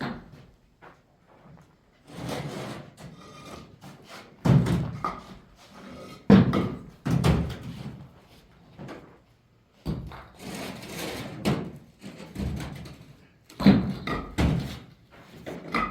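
Irregular knocks, thuds and scraping from masonry and plastering work, coming in separate bursts of up to a second with short pauses between.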